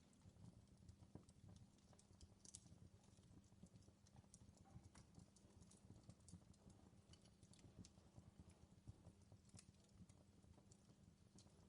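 Faint crackling of a wood fire in a fireplace: small irregular pops and snaps over a low rumble.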